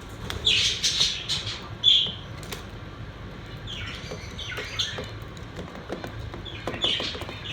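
Pet budgerigars chirping and chattering in a few short spells, with scattered small clicks between them.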